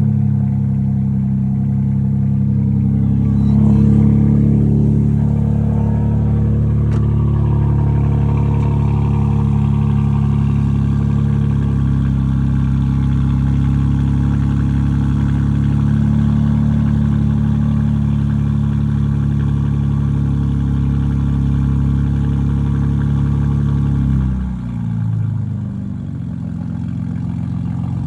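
BMW M4 Competition's twin-turbo inline-six idling high and steady just after a cold start. About 24 seconds in, the idle drops to a lower, quieter pitch as the engine settles.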